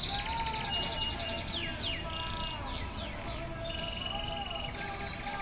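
Several birds singing and calling together: buzzy trills, quick downward-slurred whistles and lower whistled notes overlapping throughout.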